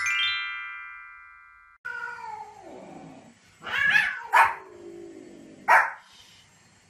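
A short chiming jingle for a countdown title card fades out. A long call falling in pitch follows, then a small white spitz dog barks three sharp times at a cat.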